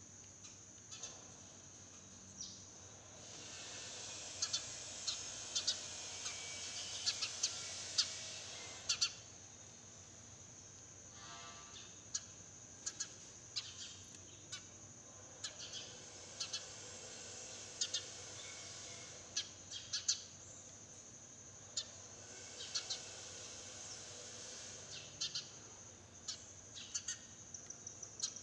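Sparrows chirping in quick, sharp bursts, busiest in two spells, over a steady high-pitched insect drone.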